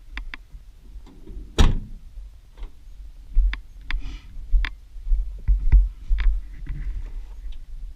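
Scattered short clicks and knocks, the loudest about one and a half seconds in, over a low rumble, with no engine running.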